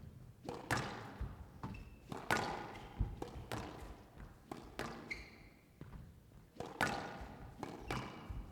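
Squash rally: the ball struck by rackets and rebounding off the court walls in an irregular series of sharp thumps and cracks, with a short high squeak about five seconds in.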